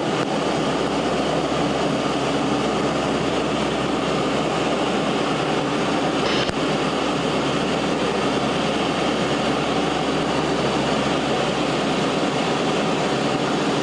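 Steady drone of a C-130's four turboprop engines and rushing air inside the aircraft, unchanging throughout, with a low hum underneath.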